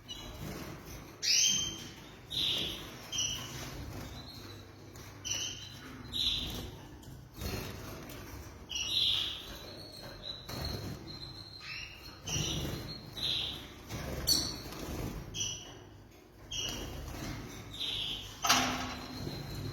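Domestic canaries calling: short chirps repeated about once a second, with now and then a thin held whistle.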